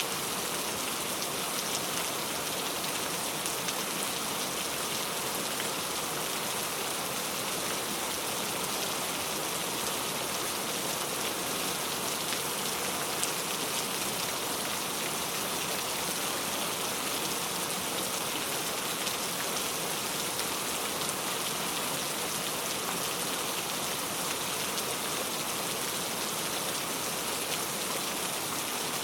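Steady rainfall, an even hiss of drops with faint scattered patter.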